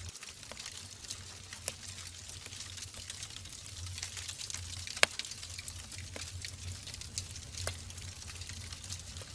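Wood fire burning in a fireplace: a steady hiss with scattered crackles and pops, the loudest a single sharp pop about five seconds in, over a low rumble.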